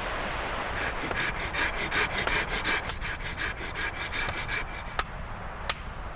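Hand saw cutting through wood in quick, even back-and-forth strokes for about four seconds, then stopping, followed by two sharp knocks. Wind noise runs underneath.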